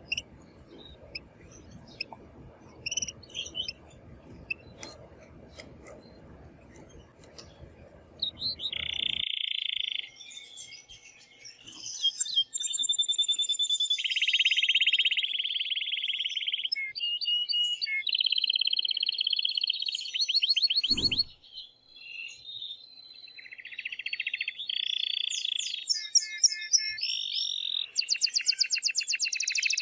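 Male domestic canary singing loudly in excited song, a run of fast trills and rolling phrases. It begins about a third of the way in, after a quieter stretch of scattered chirps. There is a short dull thump about two-thirds through.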